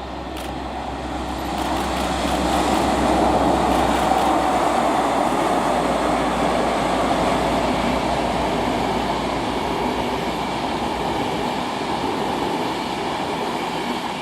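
Class 57 diesel locomotive passing at speed, dragging a rake of unpowered Mark 4 coaches: the rumble of wheels on rail builds over the first few seconds, then holds as the coaches roll past, with a low engine drone that fades out about eleven seconds in.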